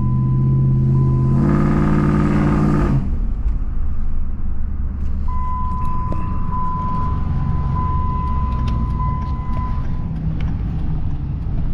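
Car driving along: engine and road rumble throughout, with a strong pitched hum for the first three seconds that steps up in pitch about a second and a half in.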